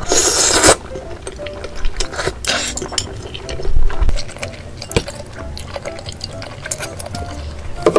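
Liquid being poured in a few bursts, the first and loudest right at the start, with small clinks in between, over faint background music.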